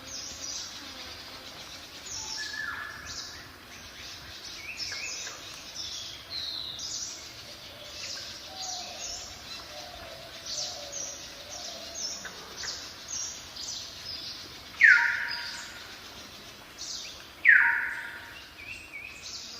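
Wild birds calling: a steady run of short, high chirps, and twice near the end a loud call that sweeps down in pitch.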